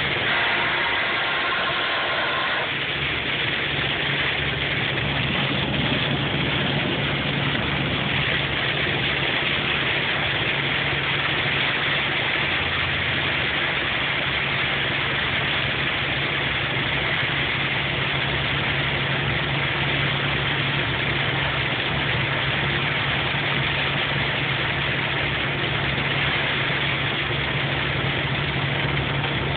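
Hail falling hard and steadily, a dense unbroken clatter, over a steady low hum.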